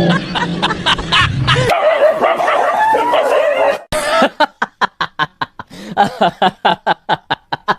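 A dog whining, then a fast run of short, sharp barks, about four or five a second.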